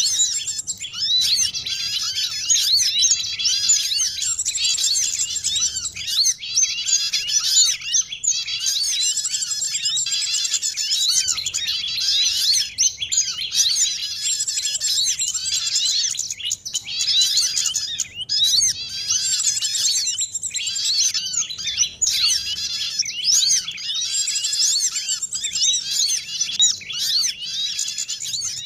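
Dense, overlapping chorus of small songbirds chirping and twittering rapidly: a layered bird-trapping lure recording mixing sunbirds, white-eyes and prinias.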